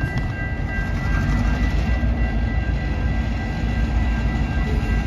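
Intermodal freight train rolling past: a steady, heavy low rumble of wheels and cars, with a faint high-pitched whine held steady over it.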